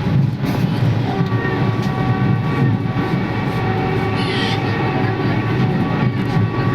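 Vande Bharat Express electric multiple-unit train running at speed, heard from inside the coach: a steady rumble with faint steady whining tones, and a brief hiss about four seconds in.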